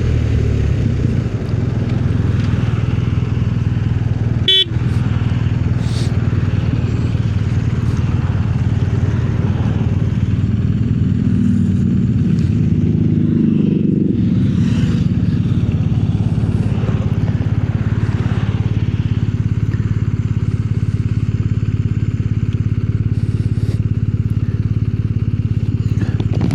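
Motorcycle engine running steadily on the move, with the engine note climbing and changing for a few seconds around the middle. A single sharp click comes about four and a half seconds in.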